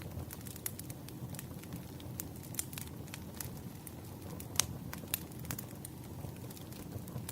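Wood fire burning, with a steady low rumble and irregular crackles and pops, the sharpest about four and a half seconds in.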